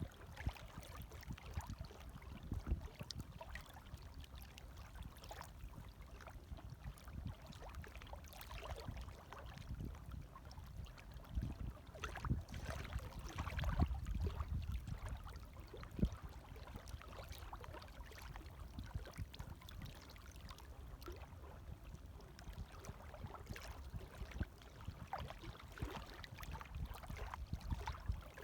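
Gentle water waves lapping, with many small irregular splashes and a slight swell in loudness about halfway through.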